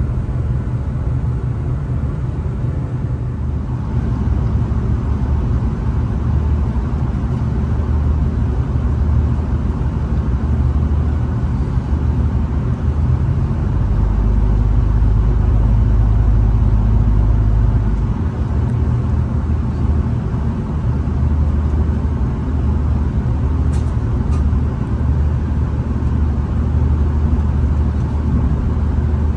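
Interior noise of a V/Line VLocity diesel railcar on the move: a steady low rumble of the engine and the wheels on the rails. The rumble swells louder for a few seconds about halfway through, and two faint clicks follow a few seconds later.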